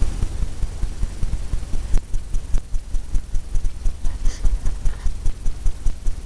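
Brush working against a stretched canvas: quick, even strokes giving a rhythmic run of low thumps, about four or five a second, with faint high ticks.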